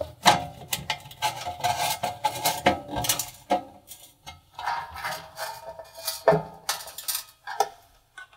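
Phillips screwdriver driving screws into the metal fan cover panel inside an oven cavity: irregular metallic clicks and scraping as the screws are tightened.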